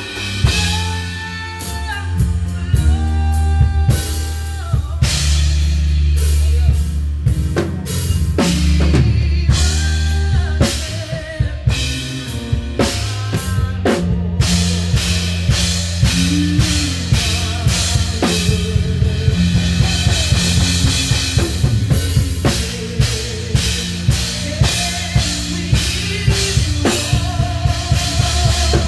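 Live band music led by a full drum kit, with kick, snare and rimshot strokes in a steady beat over a sustained bass line and held pitched instrument notes.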